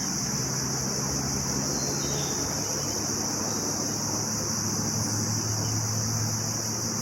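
Evening insect chorus, crickets or similar insects, as one unbroken high-pitched drone, with a low steady hum underneath.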